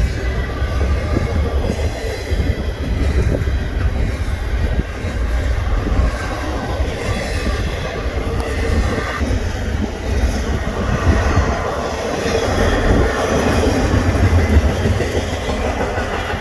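Union Pacific intermodal freight train rolling past: a steady, loud rumble of wheels on the rails with rapid clacking over the joints and a faint wheel squeal.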